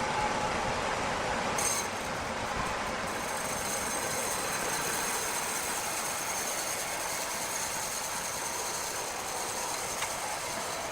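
Steady mechanical noise of running machinery, with a faint high whine from about three seconds in and a single sharp click near the end.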